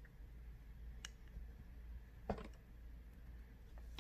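Quiet room tone with a steady low hum, broken by two faint clicks, one about a second in and a slightly louder one a little past two seconds.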